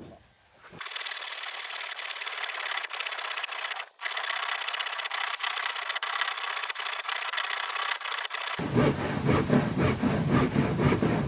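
A tool working wood: a steady, grainy rasping scrape with a short break about four seconds in, changing near the end to a fuller, choppier scraping.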